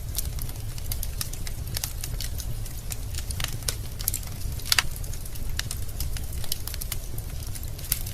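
Wood fire in a fireplace crackling, with frequent irregular pops over a steady low rumble of the flames. One louder pop comes a little past halfway.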